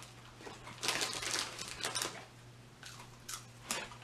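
Crinkling of a plastic chip bag being handled, in a few short rustling bursts, the longest about a second in and fainter ones near the end.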